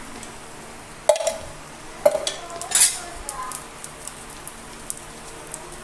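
Egg-and-milk-soaked bread slices frying in ghee on a flat pan: a steady sizzle. A utensil knocks against the pan about one and two seconds in, and the sizzle briefly flares just before three seconds.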